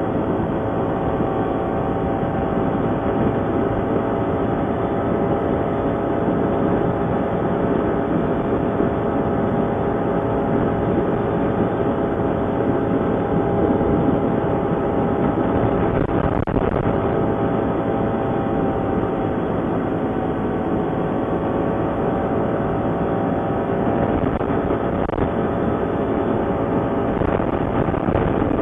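ATV engine running steadily while riding, its pitch shifting a little about halfway through.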